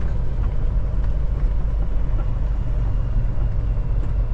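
Kenworth T680 semi truck's diesel engine running steadily while driving slowly, heard from inside the cab as an even low rumble.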